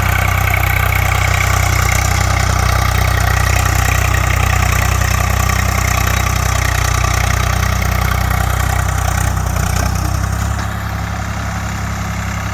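Swaraj 744 FE tractor's three-cylinder diesel engine running steadily; its note changes and the level drops a little about ten seconds in.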